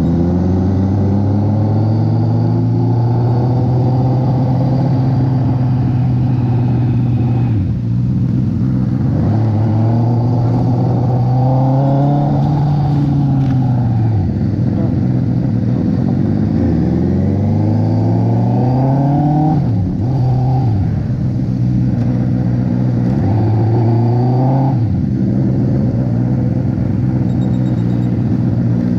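2019 Honda CB650R's inline-four engine under way on the road. Its pitch rises as the throttle is opened and drops sharply several times as the throttle is rolled off or a gear is changed.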